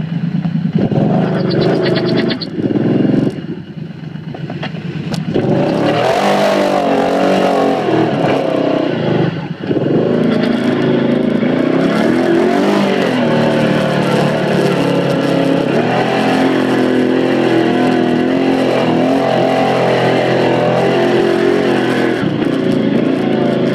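Off-road motorcycle engines running in low gear and revving, their pitch repeatedly rising and falling.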